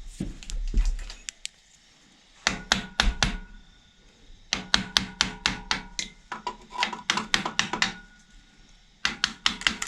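Hammer tapping repeatedly on a stuck water pump on a Ford 4.6 three-valve engine to knock it free, in short runs of quick sharp taps with brief pauses between.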